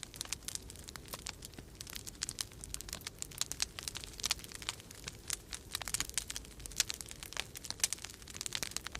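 Wood fire crackling in a fireplace, a dense run of irregular sharp pops and snaps. Underneath lies a faint, steady low rumble of winter-storm wind.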